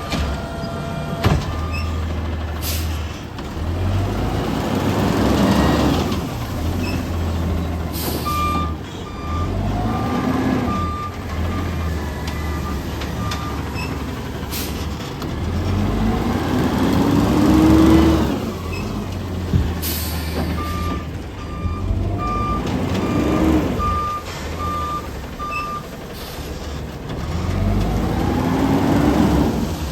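Garbage truck working a yard-waste pickup: its diesel engine runs throughout and revs up and down about five times, with two runs of reversing beeps and several short air-brake hisses.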